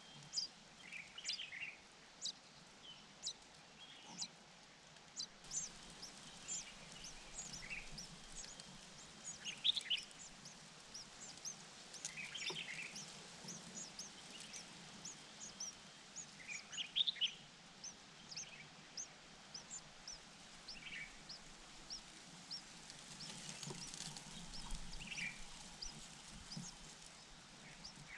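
Small birds chirping: a steady run of short, high chirps, two to three a second, with louder chirping every few seconds.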